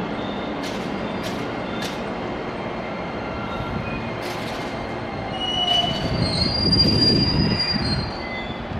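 A train moving through a station: steady running noise with sharp clicks, then high-pitched wheel squeal that swells to its loudest from about six to eight seconds in and fades near the end.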